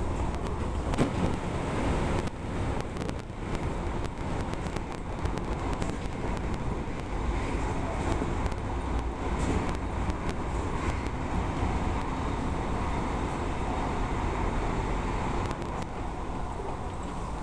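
Odakyu electric train running at speed, heard from inside the front car: a steady rumble of wheels on rails with frequent short clicks. It runs through a tunnel and comes out into the open near the end.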